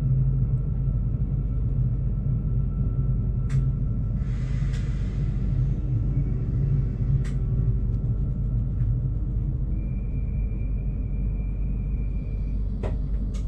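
Steady low rumble of a Stadler GTW diesel multiple unit, heard from the driver's cab as it creeps slowly up to a buffer stop. A short hiss of air comes about four seconds in, with a few sharp clicks, and a thin high squeal runs from about ten to twelve and a half seconds in.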